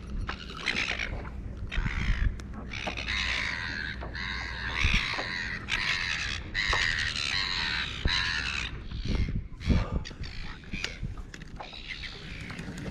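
Many birds calling at once, a dense, unbroken chorus of harsh overlapping calls loud enough to be wearing, with a few low knocks underneath.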